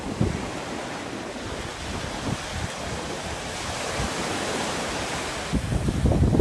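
Sea surf washing in steadily, swelling a little past the middle. Wind gusts rumble on the microphone near the end.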